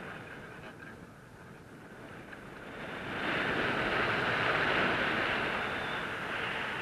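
Wind rushing over the microphone during a paraglider flight, a steady hiss that swells about three seconds in and eases near the end.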